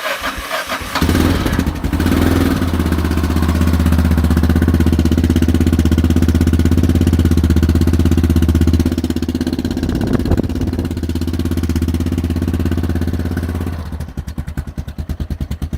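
1991 Yamaha XTZ 660 Ténéré's single-cylinder engine running cold through its leaking original exhaust, louder from about a second in and steady, then slowing to separate firing pulses near the end.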